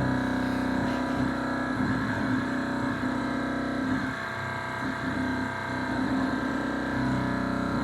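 Thermoacoustic engine running with a loud, steady, buzzing hum with strong overtones. The pitch wavers and breaks up for a few seconds twice before settling again.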